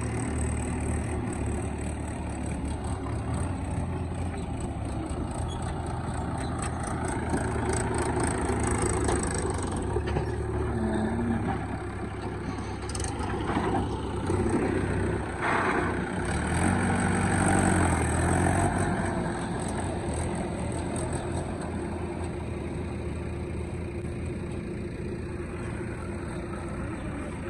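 Diesel engines of a backhoe loader and tractor running at a worksite, the engine note swelling louder twice as the machines work. A couple of brief sharp noises sound midway.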